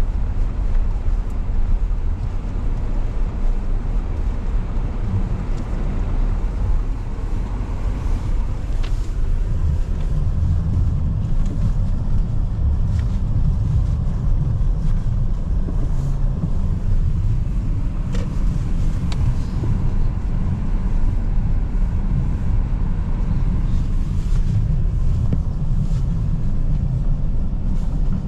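Steady low rumble of a car being driven, engine and road noise, with a few faint ticks scattered through.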